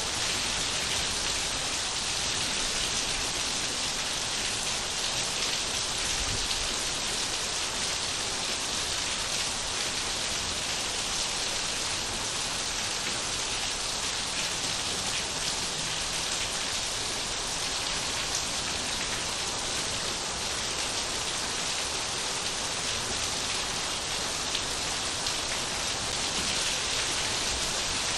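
Steady rain falling, a dense even hiss of drops on surfaces with no let-up.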